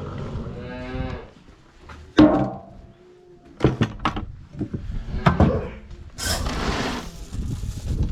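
Cattle mooing: calves separated from their mothers for weaning and the cows calling back to them. There are a couple of long calls, the second after a sharp knock about two seconds in, then several clicks and knocks, and a burst of rustling hiss near the end.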